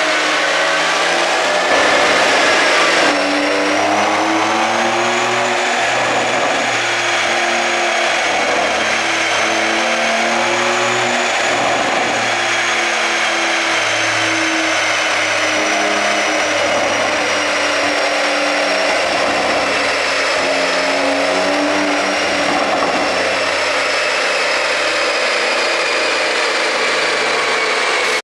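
Porsche 911 (992) Targa 4S twin-turbo flat-six running under way on an ECU tune, its engine note stepping up and down in pitch with a steady high whine over it.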